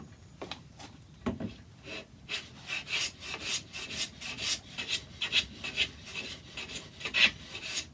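A hand tool skimming a piece of oak with quick, repeated back-and-forth scraping strokes, trimming a slightly out-of-true angle on a clock foot.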